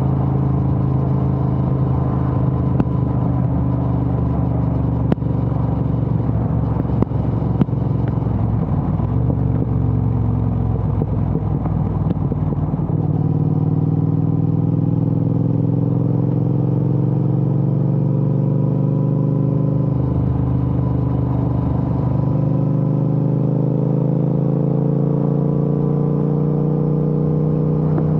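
Triumph Speed Twin 1200's parallel-twin engine running through a Vance & Hines aftermarket exhaust, heard while riding. The note holds steady at first, then rises gradually over the second half, with a short break about twenty seconds in before it climbs again.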